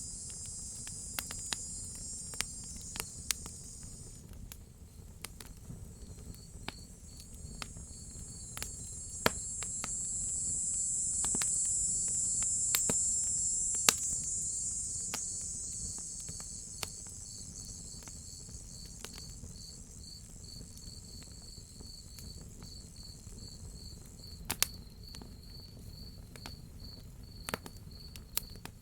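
Crickets chirping in a steady repeating pulse. A higher insect buzz swells in the middle and fades, and a wood fire gives scattered sharp crackles over a low rumble.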